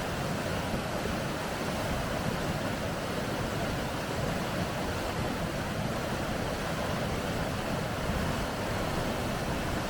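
Rapids: a steady rush of fast water over rocks.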